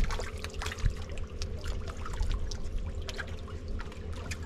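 A shoal of roach snatching floating bread at the water surface, making a dense patter of small quick splashes and slurps. A steady low hum runs underneath.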